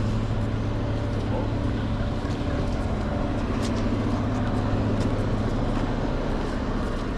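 Heavy truck engine idling steadily at an even, unchanging pitch.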